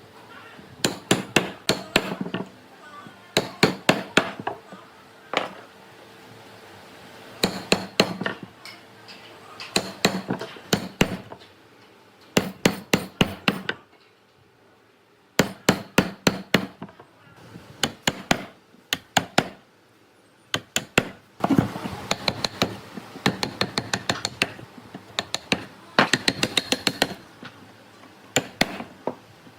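Hammer blows struck in quick runs of several hits each, with short pauses between the runs.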